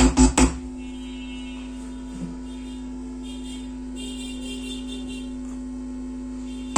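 Steady mains hum from a transistor amplifier board through a 16-inch speaker, which the builder puts down to how the volume pot is connected and the board not yet being set up. A few loud, bass-heavy music beats play over it and cut off about half a second in.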